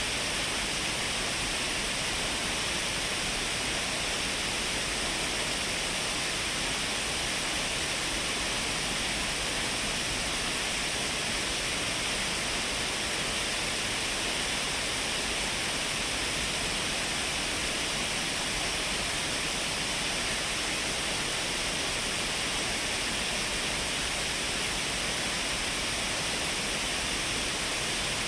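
Shiraito Falls, a wide curtain of many thin streams of water falling over a cliff, making a steady, unbroken rush with a strong hiss in the upper range.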